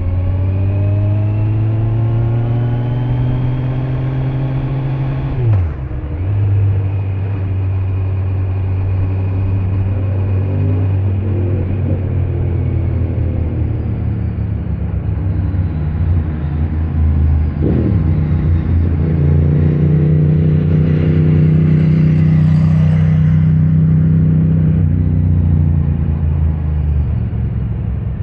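Kawasaki Z900's inline-four engine running under way with its stock exhaust: the note rises over the first few seconds, breaks briefly about five seconds in and again near the middle, holds steady between, and drops near the end.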